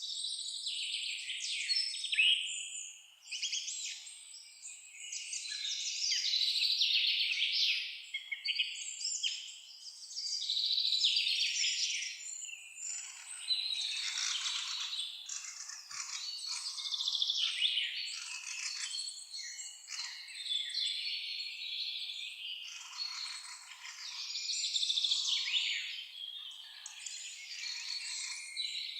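Several songbirds chirping and singing at once, a dense chorus of overlapping high chirps and trills that swells and fades every few seconds.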